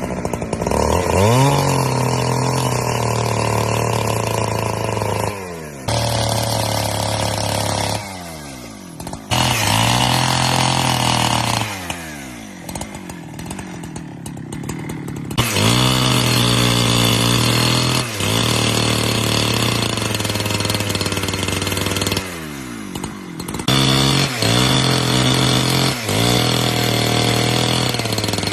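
Chainsaw repeatedly revving up to full speed and holding there, as when cutting firewood, then dropping back toward idle between cuts, about five or six times.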